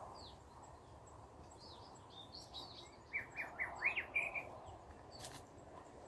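Wild birds calling in woodland: scattered short, downward-sliding chirps, then a quick run of several sharp notes about halfway through, over a faint steady background hiss.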